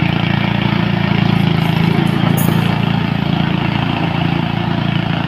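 Motor vehicle engine running steadily with a low, even hum and little change in pitch.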